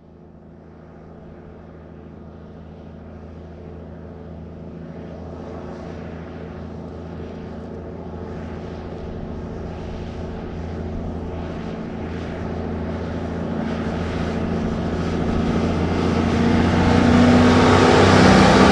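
1954 big-rig truck engine running at low speed as the truck approaches slowly, the steady engine drone growing louder throughout and nearly at its loudest near the end.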